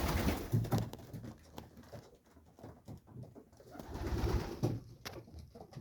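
Male racing pigeons cooing, with two louder bouts about half a second in and around four seconds in, and a few light clicks between.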